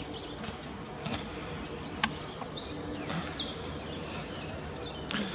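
Wild birds chirping in short calls over steady outdoor background noise, with a single sharp click about two seconds in.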